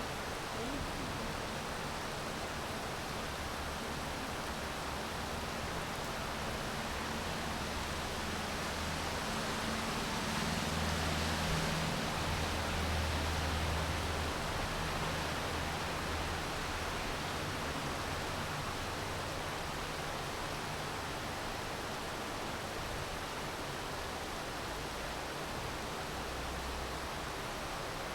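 Steady rain falling, an even hiss with no breaks. A low rumble swells and fades a little before the middle.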